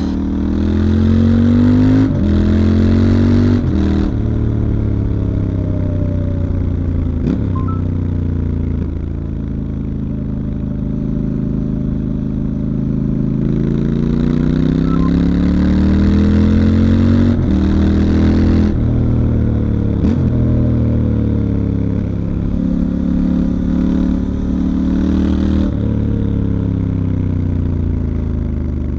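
2019 Triumph Scrambler 1200 XE's stock 1200 cc parallel-twin engine under way. The revs climb through two quick upshifts in the first few seconds, then fall away as the bike slows. They build again through more gear changes in the second half.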